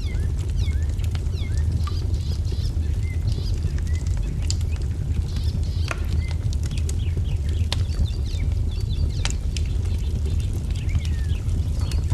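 Wood fire crackling, with sharp pops every second or so, under a steady low rumble. Small birds chirp repeatedly over it.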